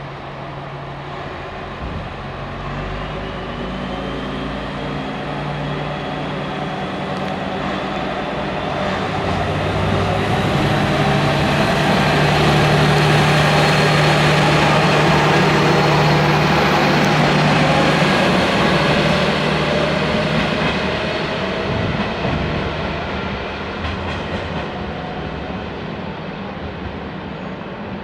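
Kyoto Tango Railway train pulling out and running past. Its running noise, with a steady low hum, builds to a peak about halfway through and then fades as it moves away.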